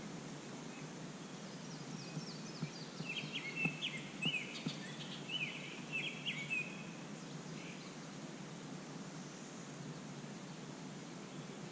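A songbird singing a quick run of short, sharp chirps for several seconds, starting about two seconds in, over faint steady outdoor background noise.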